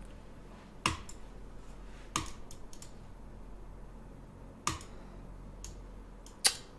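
Sharp clicks of a computer mouse as pieces are moved quickly in an online bullet chess game: four loud clicks spread across the stretch, with fainter clicks between them.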